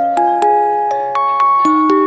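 Music-box melody playing: plucked metal-comb notes, a few each second, each ringing on and overlapping the next.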